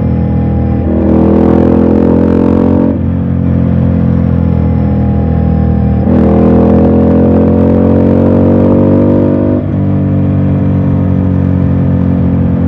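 Ducati Scrambler's air-cooled L-twin engine pulling under throttle on the road, its note climbing steadily, then dropping sharply at two upshifts, about three seconds in and near the end, with a surge of throttle between them. Wind rushes past the helmet microphone.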